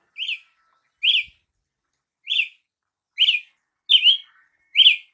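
Brazilian tanager (tiê-sangue) calling: a short, sharp note that rises and falls, repeated six times at roughly one-second intervals.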